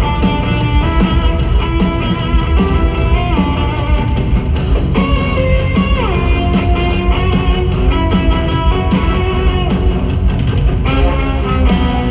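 Live instrumental heavy metal: amplified, distorted cellos play a sustained melody with sliding notes over a driving drum beat.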